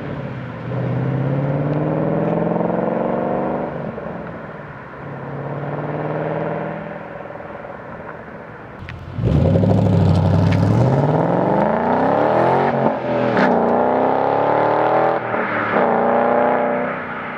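2011–2014 Ford Mustang GT's 5.0L V8 running through an aFe cat-back exhaust. It is revved up and down twice, then from about nine seconds in it is opened up hard, the pitch climbing steadily, with more revs rising and falling before it settles near the end.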